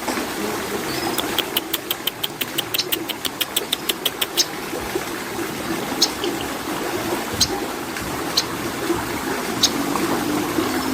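Cucak koreng bird giving sharp, high ticking calls: a fast run of about six a second for some three seconds, then single ticks about a second apart, over a steady low hum.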